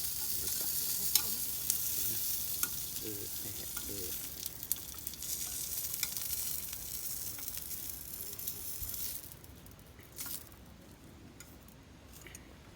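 Food frying in a hot pan with a steady sizzle and scattered crackles, which stops suddenly about nine seconds in, leaving a few light clicks.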